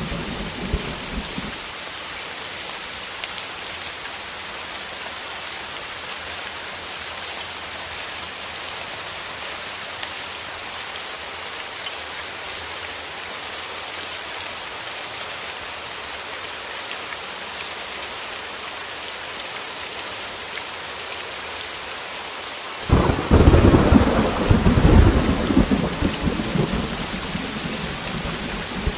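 Heavy rain falling steadily, with the tail of a thunder rumble dying away at the start. About twenty-three seconds in, a loud clap of thunder breaks and rolls on for several seconds before fading back under the rain.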